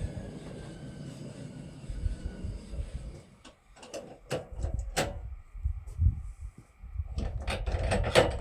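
A battery screwdriver runs steadily for about three seconds, driving the sawmill's height crank. It stops, and a series of sharp knocks and clanks follows.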